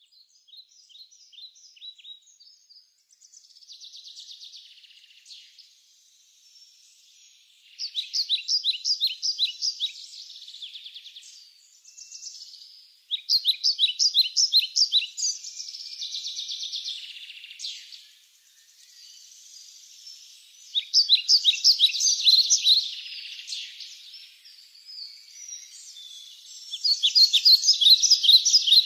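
Birds chirping: bouts of quick, high repeated chirps lasting a couple of seconds each, with softer twittering in between. The bouts come in about eight seconds in, again around thirteen and twenty-one seconds, and loudest near the end.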